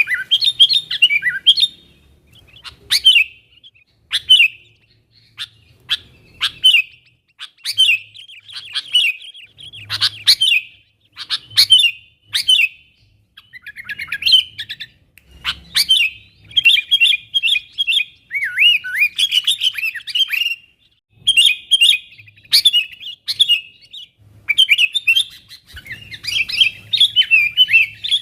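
Sooty-headed bulbul singing: short, bubbly, chirping phrases repeated every second or so with brief pauses, mixed with sharp clicky notes.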